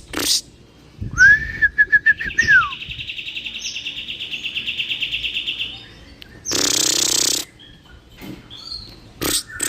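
Kapas tembak bulbul singing: a few sharp notes, a run of quick slurred chirps ending in a falling slide, then a long fast high trill. About six and a half seconds in comes a harsh rasp lasting about a second, followed by more sharp chattering notes near the end.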